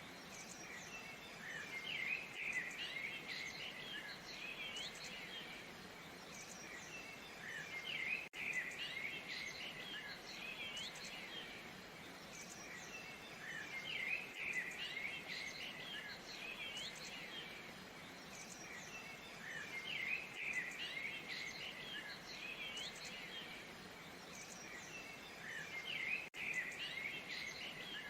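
Steady rush of a waterfall with birds chirping over it in bursts that come back about every six seconds, as if the same stretch of recording repeats. Twice the sound dips out for a moment.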